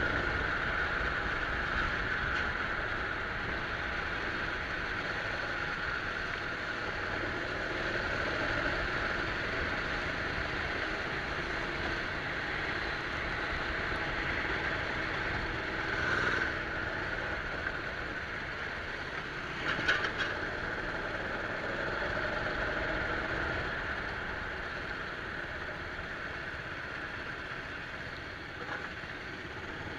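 Rental go-kart engine running steadily, a continuous drone with two brief louder moments about halfway and two-thirds of the way through.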